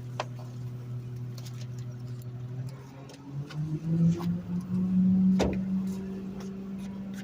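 Garbage truck's diesel engine idling, then speeding up to a higher, steady pitch about three seconds in as the hydraulic packer runs, with scattered clicks and knocks.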